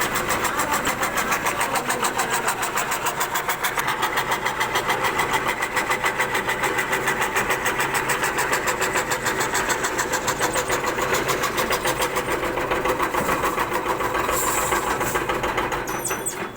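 CNC wood carving router running and cutting wood, a steady machine noise with a rapid, even pulse; it dies away near the end.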